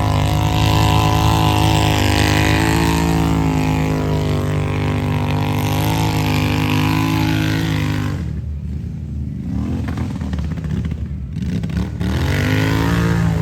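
A vehicle engine running steadily and loudly close by. About two-thirds of the way through it eases off and its pitch wavers up and down for a few seconds, then it settles back to a steady pitch.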